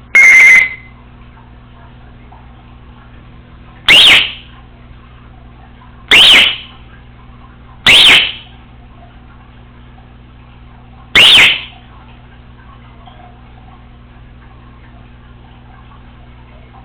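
Congo African grey parrot giving five short, loud, high-pitched calls a few seconds apart, each dropping slightly in pitch at its end, over a steady low hum.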